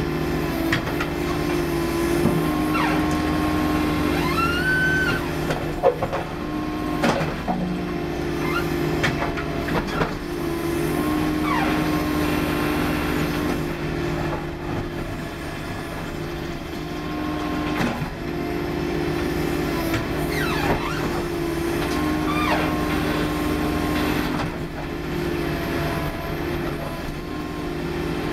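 Case 440 skid steer running steadily under load while its hydraulic hammer breaks up asphalt, with scattered knocks and short squeals that rise in pitch now and then.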